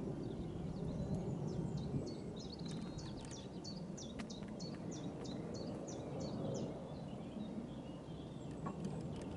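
A small bird singing a run of short, high chirps repeated about two to three times a second for several seconds, over a steady low outdoor background hum.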